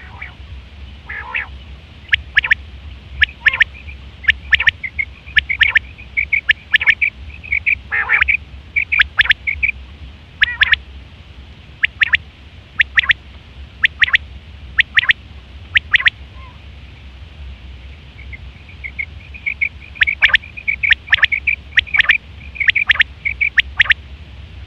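Quail calling: sharp, clear notes repeated about once a second, mixed with rapid chattering runs of short notes, with a pause about two-thirds through. A steady low hum sits underneath.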